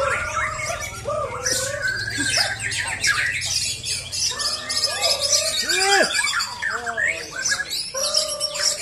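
Several white-rumped shamas singing at once: a dense tangle of loud whistled phrases, swooping slurs and fast chattering trills overlapping without pause.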